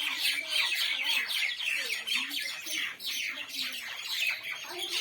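Mynah birds chattering and squawking: a dense, unbroken run of rapid harsh calls, with lower warbling notes now and then.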